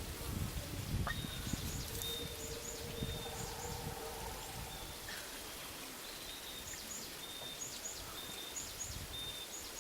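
Outdoor ambience with a small animal's high-pitched chirps repeating at an even pace, in pairs, alternating with a short high whistle about once a second. Some low rumble in the first second.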